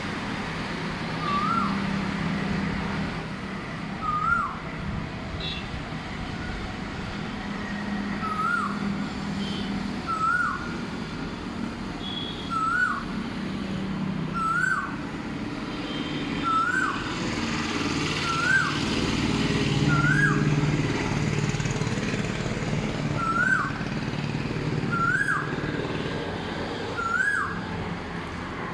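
A bird repeats a short rising call over and over, about once every two seconds, with fainter high-pitched chirps from other birds. A steady low hum runs underneath.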